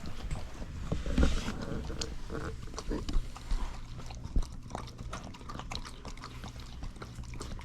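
Pungsan dogs eating from their bowls: a run of irregular short crunches and clicks of chewing, with snuffling.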